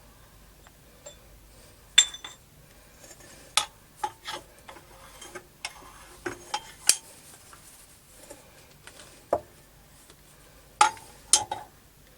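Steel tools or metal parts clinking and knocking together as they are handled, about ten irregular clanks, a few ringing briefly; the loudest comes about two seconds in.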